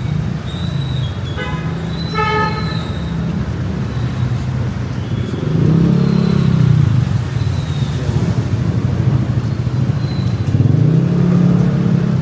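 Road traffic with motor vehicle engines running and passing, swelling louder twice as vehicles go by. There are two short horn toots about a second and a half and two seconds in.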